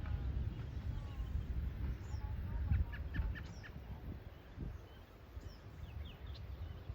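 Birds chirping in short, scattered calls over a low, uneven rumble of wind on the microphone.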